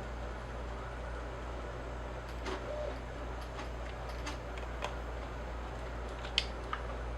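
Steady low hum with a scattering of light clicks and taps.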